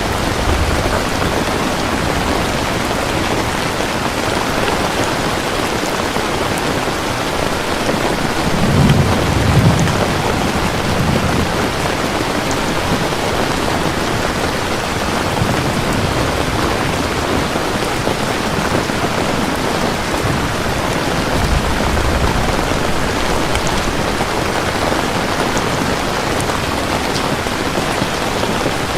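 Steady heavy rain falling, with low rolls of thunder rumbling about nine seconds in and again a little past twenty seconds.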